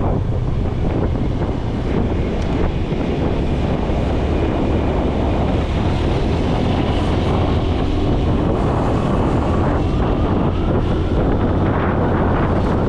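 Motorcycle running at a steady speed while riding, its engine a constant low hum under heavy wind noise on the microphone.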